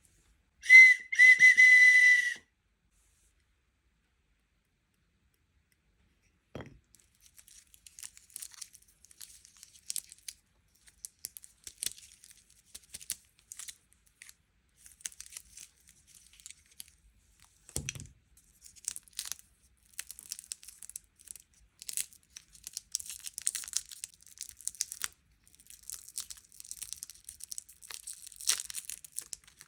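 A short, loud whistle-like tone in two quick pieces about a second in, then a pause. After that, plastic packaging is crinkled and torn open in a long run of small crackles and rustles that grow busier toward the end.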